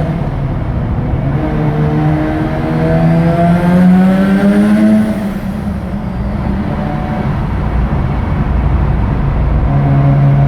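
Mazda RX-7 FD3S bridgeported 13B rotary engine through an RE Amemiya exhaust, accelerating with its pitch climbing for a few seconds, then backing off about five seconds in and settling to a steadier, lower note.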